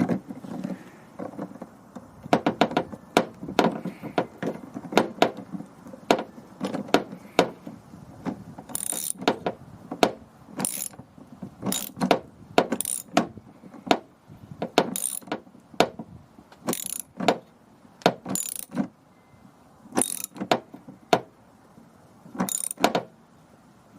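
Ratchet wrench clicking in repeated strokes as a nut is run down and tightened on a bracket bolt.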